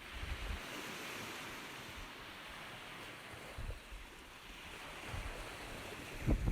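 Ocean surf: a wave washes in, swelling about a second in and slowly subsiding, over a low rumble. A low thump comes near the end.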